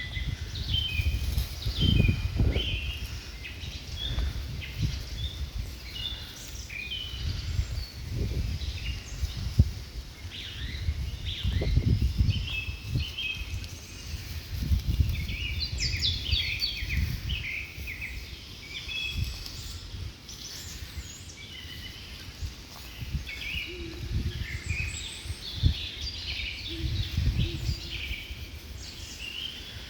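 Small birds chirping and singing in many short, quick calls throughout, over a low rumbling noise that rises and falls.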